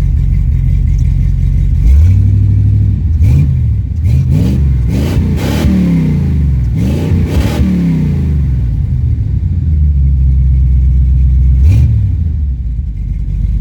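Carbureted 350 small-block Chevy V8 with a mild RV cam, in a 1994 GMC Sonoma, being revved with a series of quick throttle blips. Each blip rises and falls in pitch. The engine then holds a steady higher speed, gives one more short blip near the end and drops back to idle.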